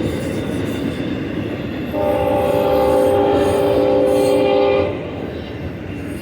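Locomotive horn sounding one steady blast of about three seconds, starting about two seconds in, over the rumble and clatter of a passing freight train.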